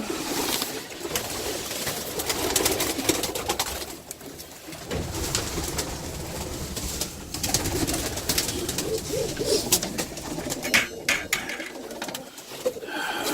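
Domestic pigeons cooing in a crowded loft, with many short rustles and sharp clicks among the calls. The birds are stirred up at feeding time.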